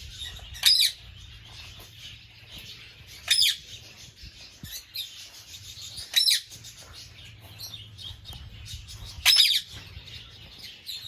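A bird gives a loud, harsh call four times, roughly three seconds apart, each call a short downward sweep, over a steady background of faint chirping from other birds.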